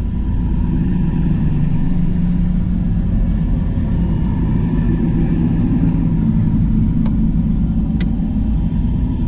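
Diesel tractor engines running steadily as tractors drive past in a convoy, a deep low rumble. Two short sharp clicks about a second apart near the end.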